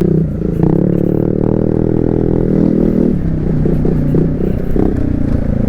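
Motorcycle engine through an aftermarket full exhaust, revved and held high for about three seconds, then blipped in a string of short bursts. The rider says the exhaust is leaking.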